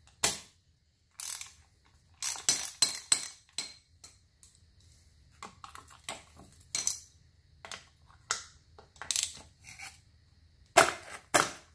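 Irregular metal clinks and taps of small steel parts and bolts being handled while a rusted gear shifter and its housing are taken apart: a dozen or so short, sharp clicks, some with a brief ring, in quick clusters.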